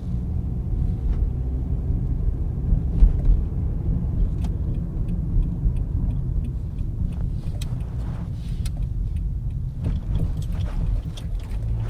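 Inside the cabin of a 2010 Toyota Corolla driven slowly over a bumpy parking lot: steady low road rumble with scattered clunks and rattles from the front left suspension, the loudest about three seconds in. The mechanic suspects a worn sway bar end link or control arm.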